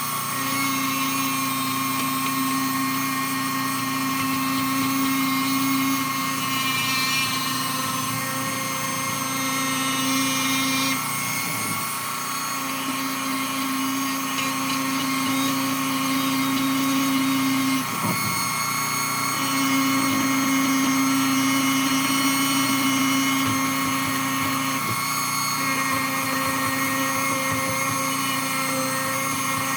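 Dremel rotary tool spinning a felt polishing wheel against a BMX chainring with metal polish, a steady high whine. A lower tone comes and goes every few seconds.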